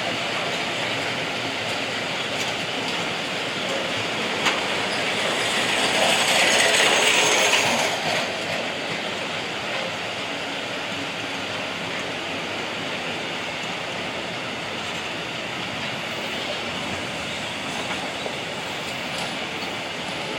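A train running past on the track: steady wheel-on-rail noise, louder for a couple of seconds with a high wheel squeal about six seconds in.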